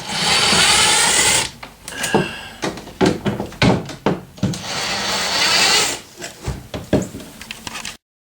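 Wood scraping and knocking: two long rasping scrapes with sharp knocks and clatter between them, cut off abruptly near the end.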